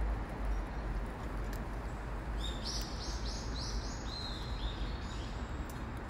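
A bird calls a run of about eight short, high notes, starting about two seconds in and lasting about three seconds, the pitch stepping up and then down. Under it a steady outdoor background noise with a low rumble.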